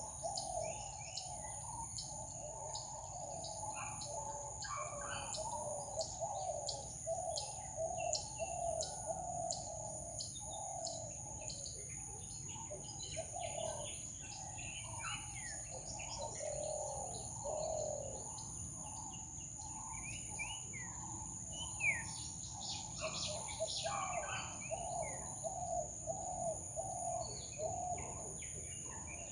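Tropical forest bird chorus: many birds calling at once, with a dense run of short repeated mid-pitched notes and scattered higher chirps and quick sweeps, over a steady high-pitched hum.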